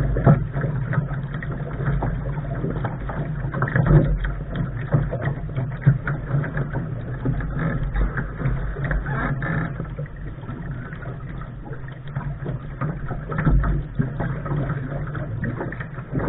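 Lark sailing dinghy under way: a steady rushing of wind and water, with irregular knocks and thumps.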